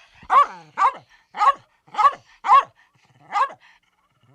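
Dog barking: six short barks about half a second apart, with a brief pause before the last.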